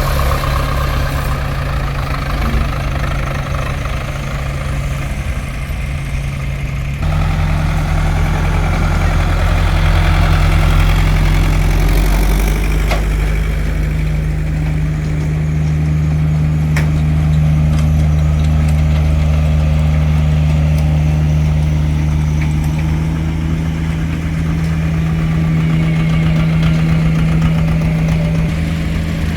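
Tractor engine running steadily at idle; about seven seconds in it becomes louder and deeper.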